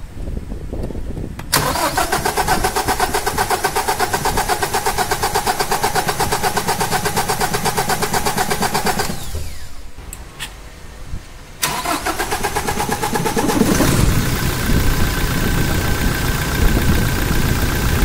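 Starter cranking a Toyota Innova Crysta diesel engine in even, rapid pulses while air is bled from its loosened injector lines, the cause of the no-start. It cranks for about eight seconds, stops, then cranks again, and near the end the sound turns heavier and louder as the engine begins to catch.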